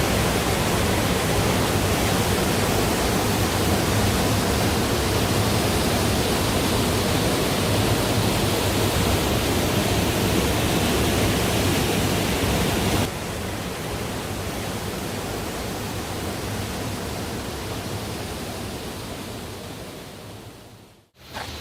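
Rushing mountain-valley stream water, full and loud from heavy monsoon runoff. About two-thirds of the way through it switches abruptly to a quieter stretch of flowing water, which then fades out near the end.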